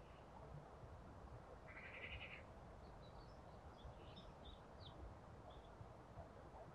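Faint garden birds calling: a short call of rapid notes about two seconds in, then scattered high chirps, over a low steady rumble.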